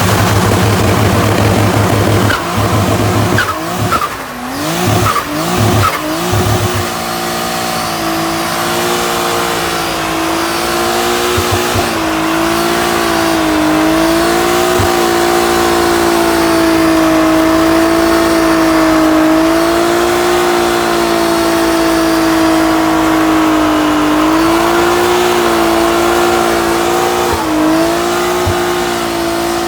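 A car engine revved hard in several quick blips, then held at steady high revs for over twenty seconds with tyre squeal: a car doing a burnout.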